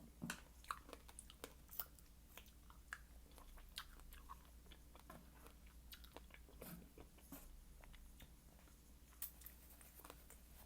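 Close-miked chewing and biting of fruit: soft, wet mouth sounds broken by short crisp crunches and clicks, most frequent in the first couple of seconds.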